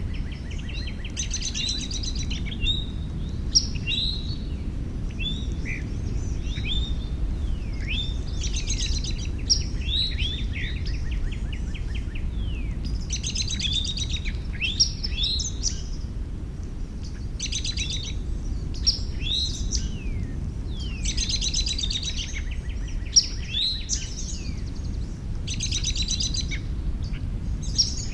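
Songbirds singing, repeating song phrases of fast trills and quick slurred notes every few seconds, over a steady low rumble.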